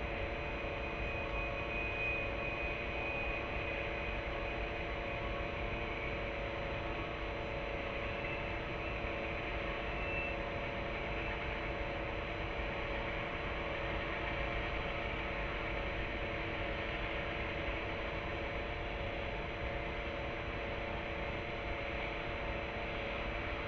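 Steady background hum and hiss with several constant low tones, with no distinct event. A faint thin high tone comes in near the start and again about eight seconds in.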